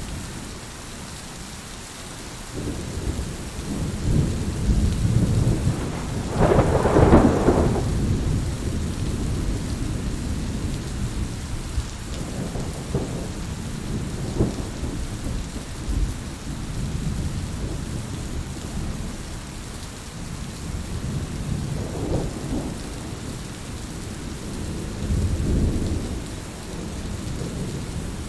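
Steady rain with thunder rolling in repeated low rumbles; the loudest, sharpest peal comes about a quarter of the way in, with smaller rumbles near the middle and near the end.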